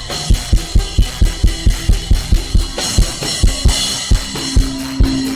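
Drum kit playing a steady, fast beat with a bass drum hit about four times a second and snare strokes, with a cymbal wash from about three seconds in.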